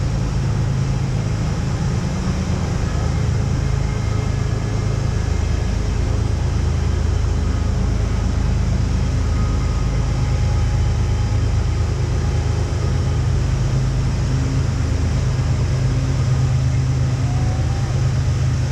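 Whitewater rapid on the Youghiogheny River rushing steadily, a constant heavy roar of water with faint voices in the distance.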